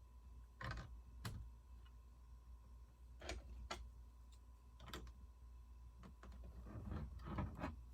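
Plastic Lego pieces clicking and tapping as they are handled and pressed together: scattered single clicks, then a quicker run of clicks near the end, over a faint steady hum.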